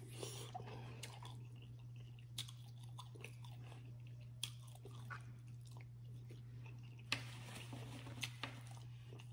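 Close-up chewing and biting of rotisserie chicken, with scattered wet clicks and crunches from the mouth, over a steady low hum.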